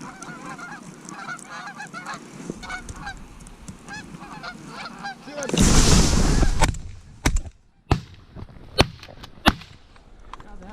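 A flock of geese honking, then a loud rush of noise lasting about a second, followed by a string of sharp shotgun shots.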